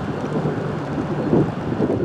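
Wind buffeting the microphone in blowing rain, a loud uneven rumble that swells and dips, with a faint steady low hum underneath.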